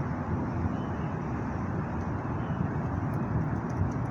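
Steady low background rumble outdoors, with no distinct events.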